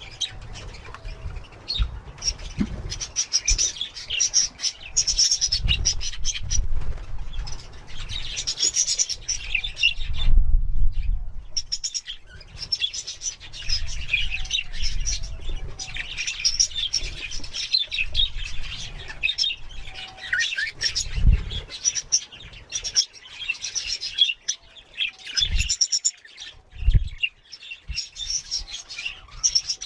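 Budgerigars chirping and chattering non-stop, a busy flock of high twittering calls, with low rumbling thuds now and then, the strongest about ten seconds in and again about twenty-one seconds in.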